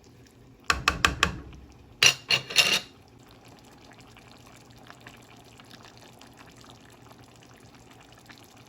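Serving utensil knocking and clinking against the pot and bowl in two quick clusters of strokes, about one and two seconds in, as soup is dished out. After that come faint liquid sounds.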